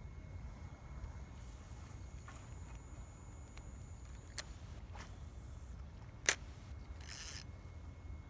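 Two sharp clicks about two seconds apart, then a brief hiss, over a low steady rumble.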